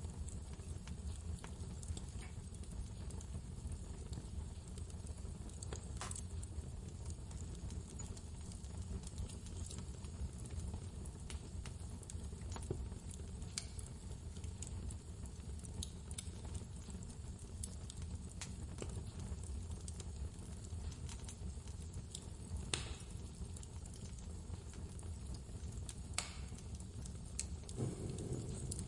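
Wood fire crackling in a fireplace, with a few sharp pops scattered through, over a steady low rumble of blizzard wind.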